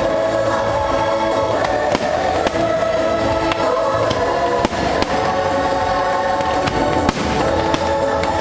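Fireworks bursting over a loud orchestral show soundtrack with a choir. Sharp bangs come every second or so, several in quick pairs, over sustained chords.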